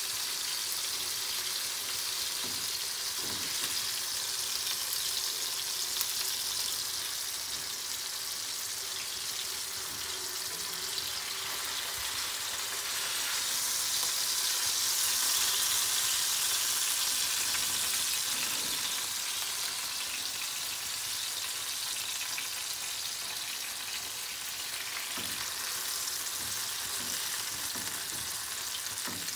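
Salmon pieces sizzling in hot oil in a frying pan: a steady hiss that swells louder about halfway through.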